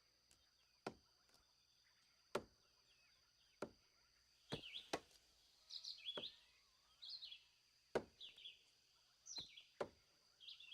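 Sharp knocks of a knife chopping into tree bark, about nine strokes at irregular intervals. Birds chirp in between from about four seconds in, over a faint steady high tone.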